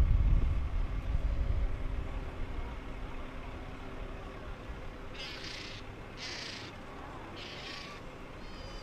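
Seagull calling three times, each call about half a second long, over a low wind rumble on the microphone that is loudest at the start and fades away in the first few seconds.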